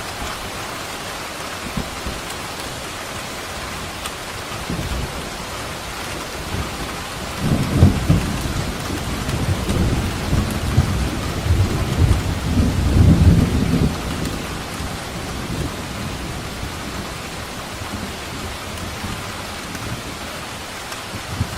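Steady heavy rain with a long rumble of thunder that swells from about seven seconds in, peaks twice, and dies away by about fourteen seconds.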